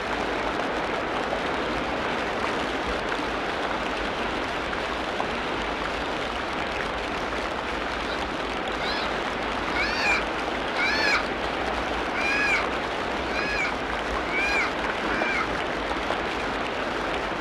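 Tropical rainforest ambience: a steady hiss of rain, with an animal giving a run of about seven short, arching calls about halfway through.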